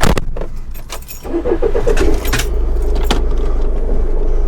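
Keys jangling and a few clicks, then a van's engine starts about two seconds in and runs steadily.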